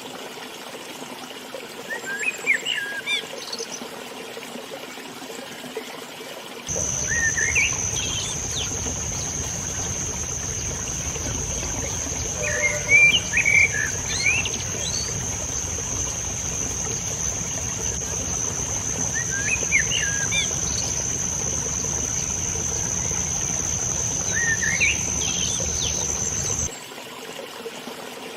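A river running steadily, with small songbirds giving short rising chirps several times. About seven seconds in, a steady high-pitched whine and a low rumble start together, hold for some twenty seconds, and cut off suddenly near the end.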